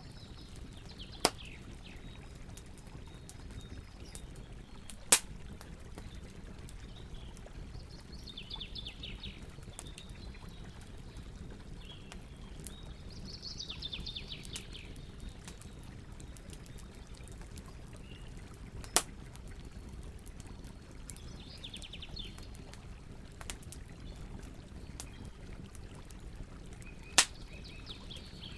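Wood campfire crackling, with four sharp pops spread through, over a steady low rush of river water. A bird sings short falling phrases every few seconds.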